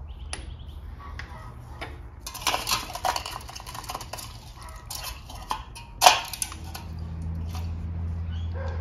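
Small metal parts clinking and knocking as engine lifters are pulled from a Holden grey motor and set down one by one, with one sharp knock about six seconds in. A low steady hum comes up near the end.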